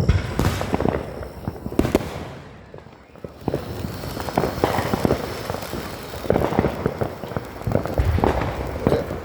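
Fireworks going off in rapid, irregular pops and crackles, dying down briefly about three seconds in before starting up densely again.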